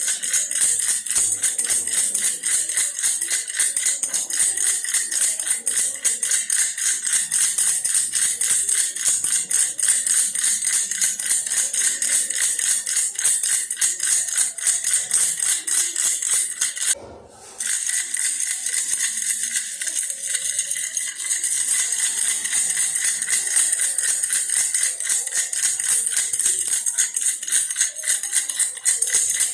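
Baby's toy bear rattle shaken fast and steadily, a continuous bright rattling, with one short break about seventeen seconds in.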